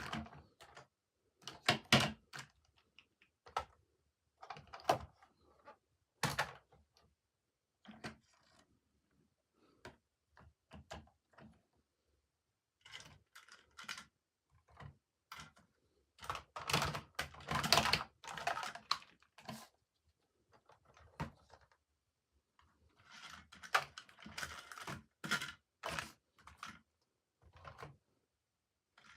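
Toy packaging being handled and opened by hand: irregular clicks, taps and short rustles with quiet gaps between them, busiest in two stretches about halfway through and near the end.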